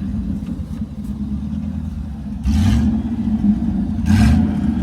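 Jeep off-road engine revving hard as it is driven through mud, with two short, louder rushing bursts about two and a half and four seconds in.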